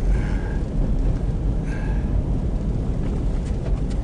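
Steady low rumble of a car driving, heard from inside the cabin, with two brief faint higher squeaks in the first half.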